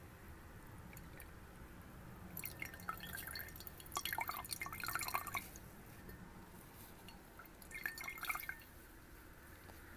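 Water dripping and splashing in a glass, with small ringing plinks. It comes in two bursts: a longer one from about two and a half to five and a half seconds in, and a shorter one near eight seconds.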